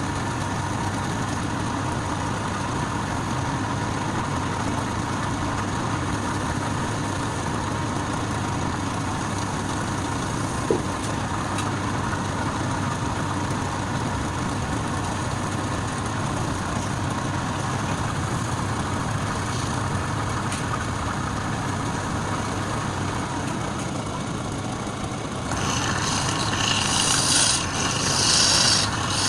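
Wood lathe running steadily with an even motor hum. About 25 seconds in, a tool or abrasive starts scraping against the spinning wood.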